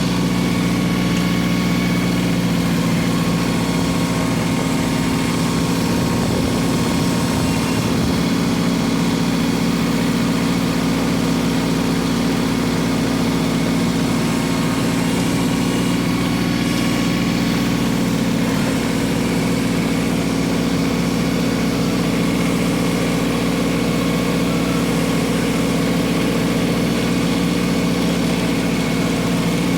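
LS XG3025 compact tractor's diesel engine running at a steady speed.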